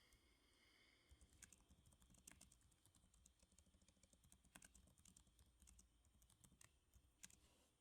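Soft typing on a computer keyboard: a faint, irregular run of keystroke clicks.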